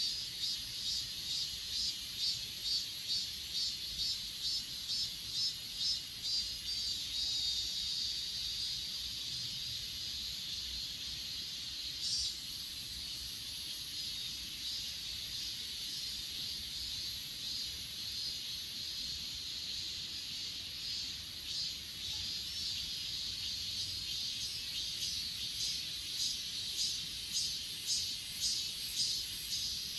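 Grass insects such as crickets chirping together in high-pitched trains of evenly repeated pulses, a few a second, forming a steady shimmering chorus.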